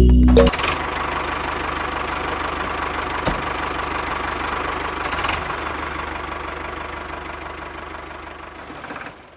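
Motor of a small DIY model tractor running steadily, fading gradually toward the end, with a single click about three seconds in. Background music cuts off about half a second in.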